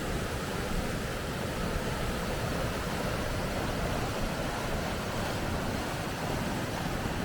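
Steady rushing of water over river rapids, an even hiss with no let-up.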